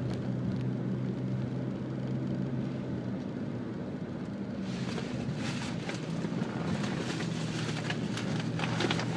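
Interior noise of a Toyota Camry 2.4 on the move: a steady low engine hum with tyre and road noise. The road noise grows louder and rougher about halfway through.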